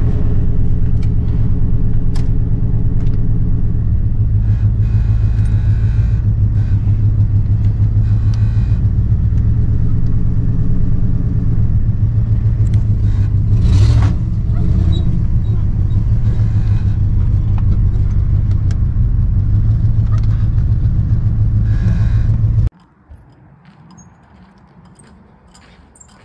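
Ford Crown Victoria Police Interceptor's V8 engine idling steadily, with a brief rise about fourteen seconds in, then cutting off abruptly near the end.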